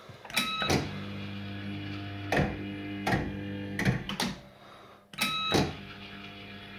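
Bell Fruit Firecracker fruit machine playing games. A short beep and a clunk as a spin starts, then a steady hum as the reels turn, with several clunks as they stop, and a second beep and clunk as the next spin starts about five seconds in.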